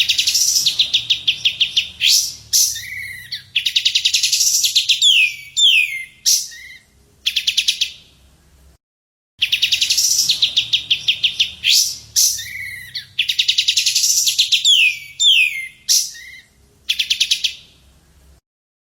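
Recorded songbird song: rapid high trills broken by downward-slurred whistled notes, the same nine-second sequence of phrases played twice in a loop.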